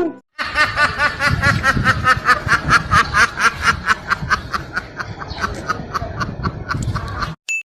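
A laughing sound effect: a long run of quick, rhythmic snickering, several bursts a second, that thins out toward the end and cuts off suddenly.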